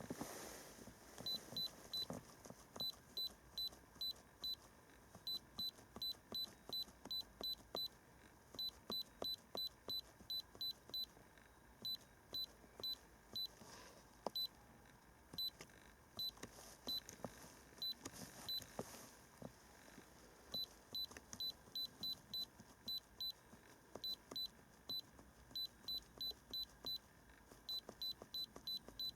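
Handheld iCarsoft i930 diagnostic scan tool beeping at each key press as its menus are scrolled: short, high single-tone beeps, often several in quick succession, with short pauses between runs.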